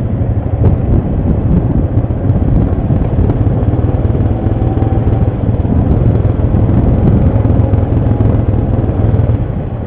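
ATV engine running steadily, a dense low drone with some clatter over it.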